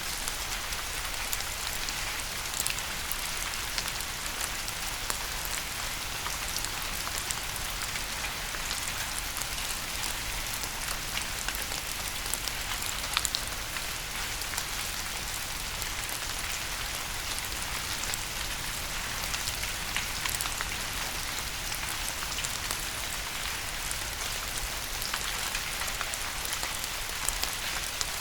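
Steady rain falling: a dense even hiss with many sharp drops ticking on a surface.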